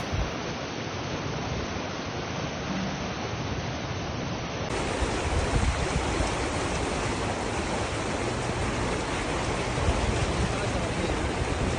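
Steady rushing of floodwater from a heavy downpour. The sound changes abruptly about five seconds in and becomes brighter.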